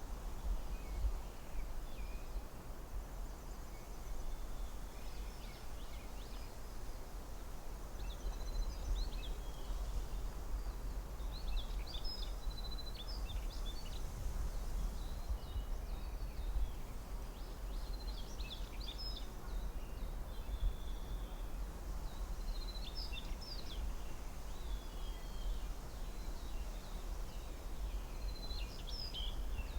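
Forest ambience: a songbird repeats a short, quick burst of chirping notes several times, a few seconds apart, over a steady low rumble and soft background hiss.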